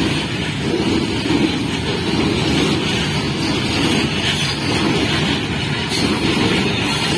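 Freight train of covered goods wagons rolling past close by: a steady, loud noise of steel wheels running on the rails.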